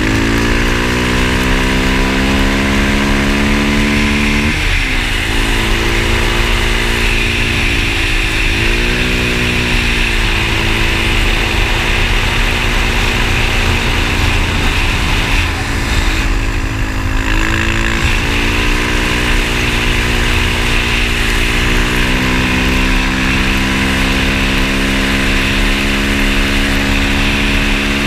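Motorcycle engine running under way, its pitch dropping sharply at gear changes a few times and climbing again in between, over a steady hiss.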